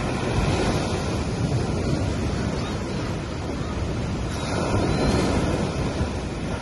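Gentle ocean waves breaking and washing up on a sandy beach in a steady hiss of surf, with a wave swelling louder around five seconds in.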